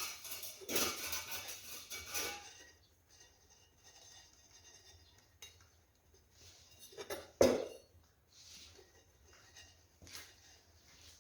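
Metal clinking and scraping, with one sharp louder knock about seven seconds in, as a chimney adapter and damper are handled and fitted into place.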